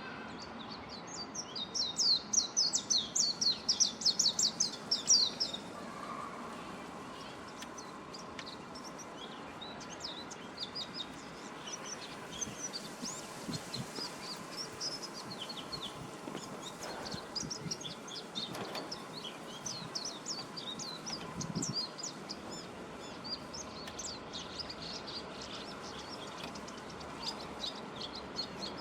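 Japanese white-eye singing: a loud, fast run of high twittering notes lasting about four seconds, then quieter, scattered chirps that go on.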